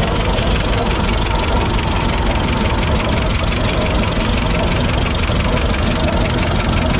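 Vintage tractor engine running steadily at low speed.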